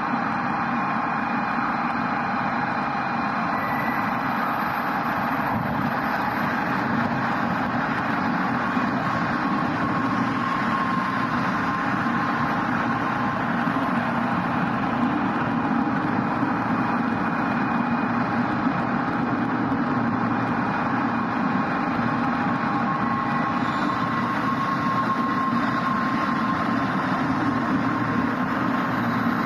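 N700-series Shinkansen train running slowly into a station platform as it arrives: a steady rolling and running noise, with a faint whine held at a few steady pitches.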